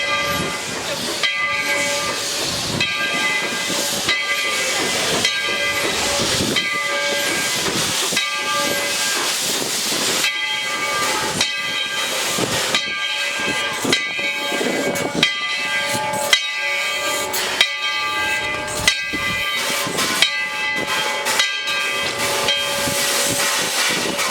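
Narrow-gauge steam locomotive No. 12 hissing steam in a slow rhythm, a pulse a little over once a second, each pulse carrying a steady ringing tone; a few sharp clicks sound in the second half.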